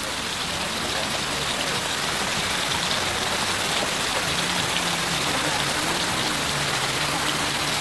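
Small fish sizzling in hot oil in a wok over a portable gas stove, a steady dense crackle.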